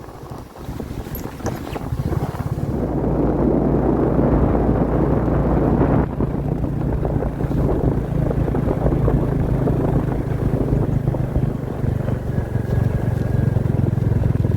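Royal Enfield Classic 350's single-cylinder engine running under way on the road, with wind rushing past. It is quieter for the first two seconds or so, then builds and holds a steady, even note.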